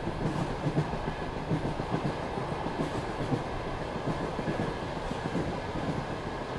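Passenger train wheels running on the rails at speed, heard aboard the coach: a steady rumble with a constant light rattle of wheel clatter.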